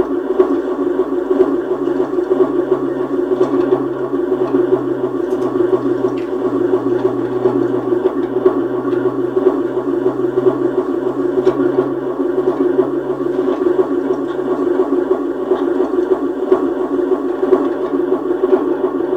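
Experimental electronic noise from synthesizers: a dense, steady drone that flutters rapidly, with a lower hum underneath.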